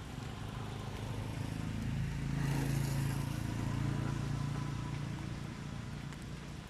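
A motor vehicle's engine passing by: its low hum swells to a peak about three seconds in, then fades away.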